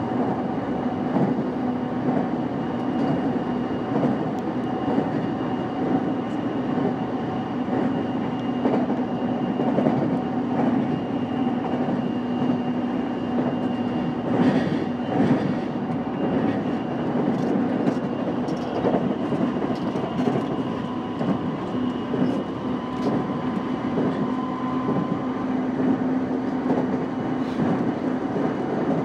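JR East E233-5000 series electric commuter train running steadily at speed: a continuous rumble of wheels on rail with the steady whine of the traction motors. Short clicks from the track come now and then, thickest in the middle.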